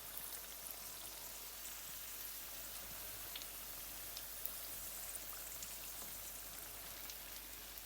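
Chicken and potato pakoras frying in a kadhai of hot oil: a steady sizzle with scattered small crackles.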